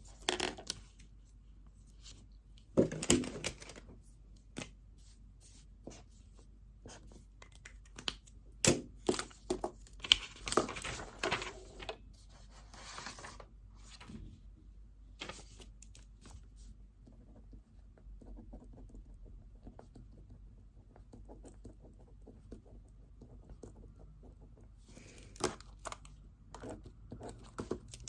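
Study-desk sounds: a pen writing on paper and paper rustling, with scattered clicks and knocks of small objects. Louder bursts of paper handling come about 3 s in, around 9 to 11 s and near the end, with a quieter stretch of faint scratching in between.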